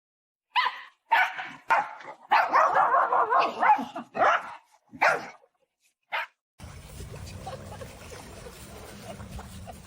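A dog barking in a series of short, separate calls, with one longer stretch of call in the middle. About two thirds of the way through it stops abruptly and is followed by a steady low background hum.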